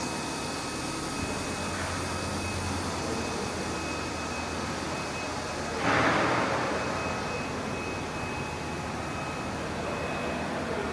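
Steady machine noise with faint high tones, with a louder rushing surge about six seconds in that eases off over a second or two.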